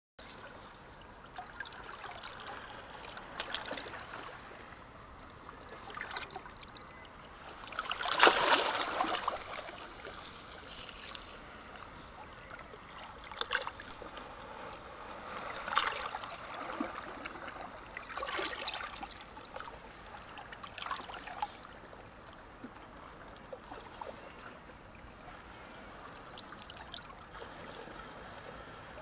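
Small sea waves washing on the shore: a steady hiss of moving water that swells with each wave, the biggest one breaking about eight seconds in and smaller ones later.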